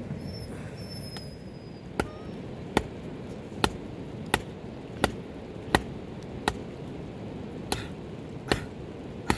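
Chopping strokes, sharp and evenly paced at about one every three-quarters of a second, beginning about two seconds in, over a steady hiss of rain.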